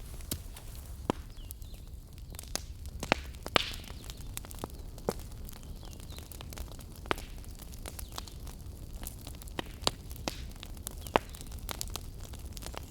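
Fire crackling in a fireplace: irregular sharp snaps and pops over a low, steady rumble of burning. A few louder pops stand out, around three seconds in and near the end.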